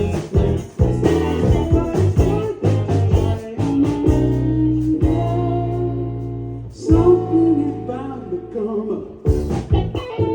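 A live band playing a song with guitar and singing, with sharp drum hits and a chord held for a few seconds midway.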